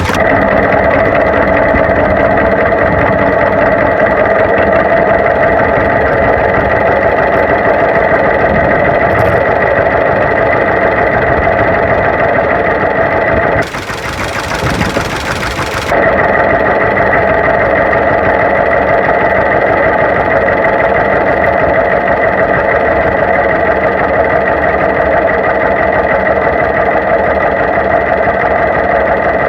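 Old farm tractor engine running steadily at a constant speed. About halfway through, it gives way for two seconds to a quieter rushing noise.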